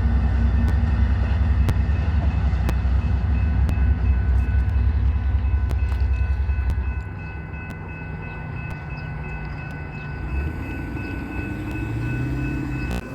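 A train passing, with a heavy low rumble that drops off sharply about seven seconds in, and regular clicks from the wheels about once a second. A few steady high tones run underneath.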